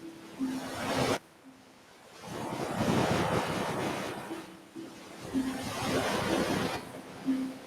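Ocean waves washing up on a beach: the surf sound cuts off abruptly about a second in, then swells back up and surges for several seconds before easing. Short, soft low tones sound now and then under the surf.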